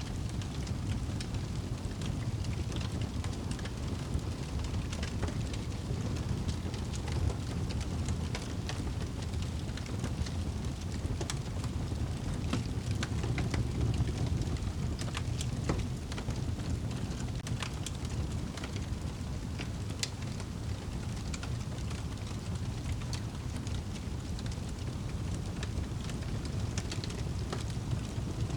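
Wood fire burning in a fireplace, with a steady low rumble and frequent sharp crackles and pops scattered irregularly throughout.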